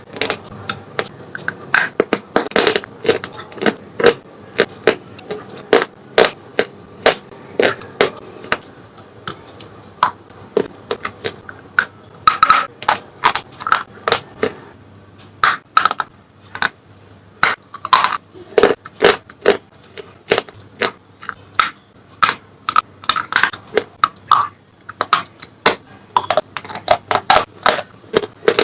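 Slate pencils being bitten and chewed close to the microphone: a steady run of sharp, irregular crunches and cracks, several a second.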